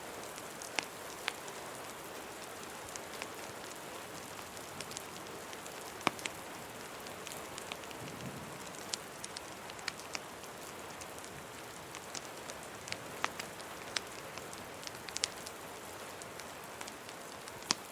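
Steady rain hiss mixed with scattered sharp crackles and pops of a wood fire, with a brief faint low rumble about eight seconds in.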